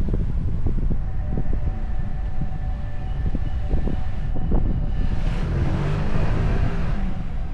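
Car driving along a winding road: steady low rumble of engine and tyres with scattered small knocks, and a rushing swell that builds and fades about five to seven seconds in.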